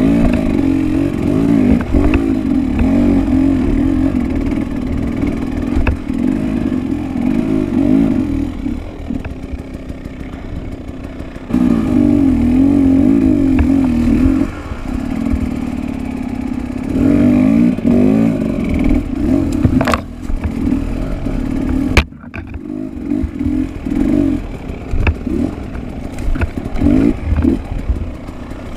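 Enduro dirt bike engine being ridden hard off-road, the revs repeatedly rising and falling as the throttle is worked, with occasional sharp clattering knocks.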